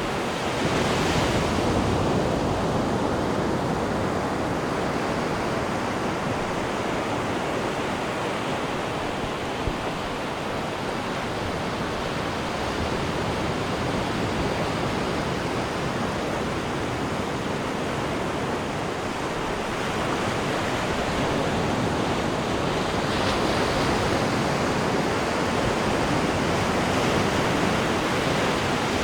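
Sea water rushing and churning in a cruise ship's wake off the stern: a steady, continuous wash with gentle swells in level.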